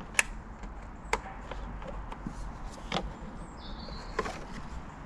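Sharp clicks and knocks of a plastic ECU cover being unclipped and handled in a car's engine bay: about four distinct clicks, roughly one every second or so.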